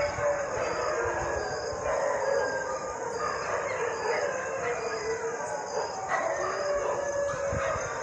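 Several dogs howling together in long, slowly gliding, overlapping howls, over a steady high-pitched drone.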